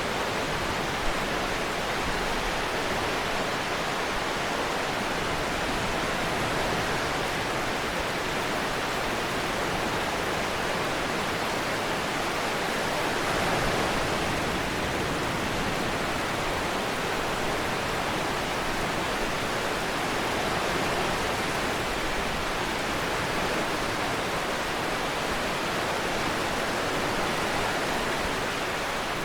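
Steady, even hiss of rainfall mixed with ocean surf, swelling slightly about halfway. One short tick about a second in.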